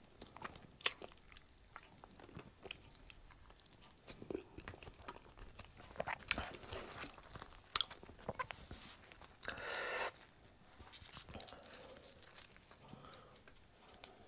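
Close-miked eating: chewing and biting into a spicy chicken wing, with wet mouth clicks and smacks. A brief louder rustle comes a little after halfway.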